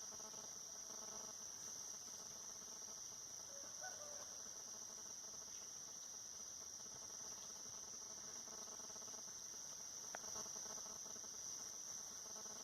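Forest insect chorus: a steady, high-pitched drone of crickets, with a sharp click about ten seconds in.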